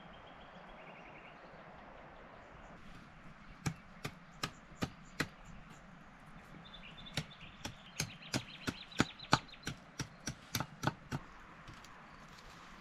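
Repeated sharp strikes of a hand tool on wood. There is a short run of five blows a few seconds in, then a brief pause, then a quicker run of about three blows a second that stops about a second before the end.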